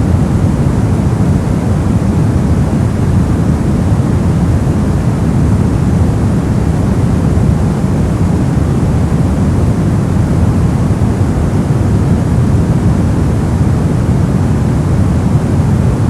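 Steady, unbroken noise-machine hiss sold as white noise, with most of its weight low down, so it sounds deep and rumbling rather than bright.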